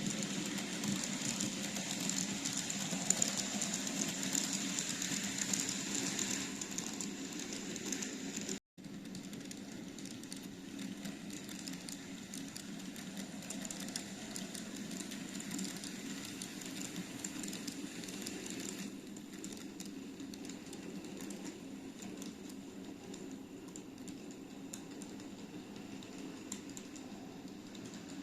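TOMIX N-gauge Kintetsu 50000 series Shimakaze model train running on its track: a steady motor hum with fine, rapid clicking of the wheels on the rails. The sound cuts out for a moment about nine seconds in, then carries on a little quieter.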